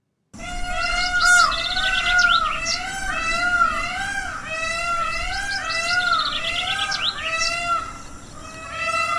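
Bird calls: a steady series of short arched, pitched notes, about two a second, mixed with quick high chirps, starting after a brief silence.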